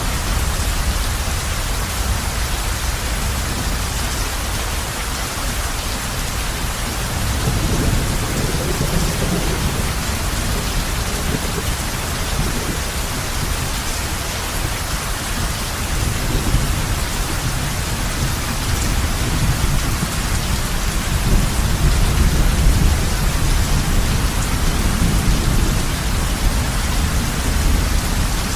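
Heavy rain falling steadily on a roof. Low rolling thunder rumbles underneath and swells up several times.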